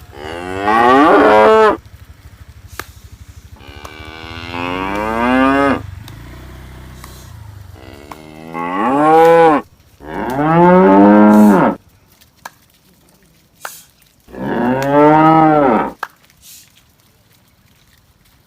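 Cattle mooing: five loud, drawn-out moos, each rising and then falling in pitch, with short pauses between them.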